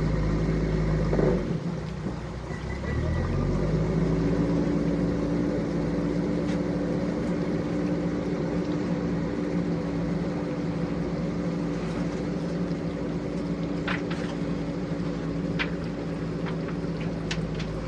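Heavy machine's engine, a tractor or JCB digger, running steadily with a constant hum. The sound shifts briefly about two seconds in, and a few sharp clicks come near the end.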